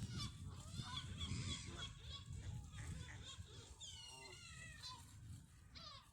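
Waterbirds at a lake calling repeatedly in short, high calls that fall in pitch, with a series of falling calls about four seconds in, over a low rumble.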